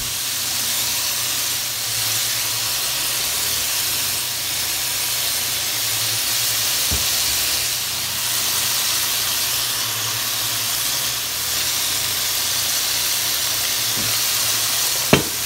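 Chicken breast pieces sizzling steadily in hot oil in a frying pan as they brown. There is a single sharp tap near the end.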